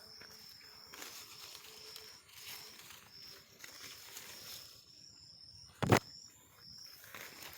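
Outdoor rural ambience with a high, regular chirping of about two chirps a second. About six seconds in there is a single loud thump, the loudest sound here.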